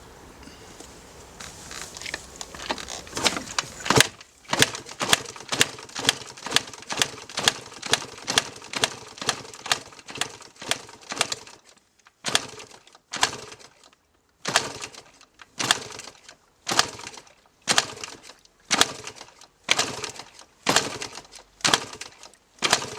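2006 Yamaha YZ125 two-stroke being kick-started over and over without firing: a run of sharp, regular clacks about two a second, with a couple of short breaks. The engine won't catch because it is flooded with fuel.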